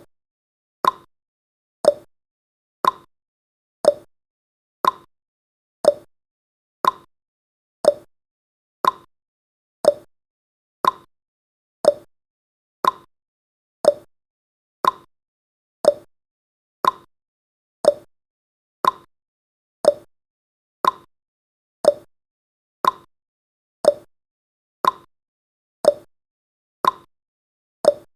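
Countdown timer's clock-tick sound effect, one short, sharp tick every second with silence in between.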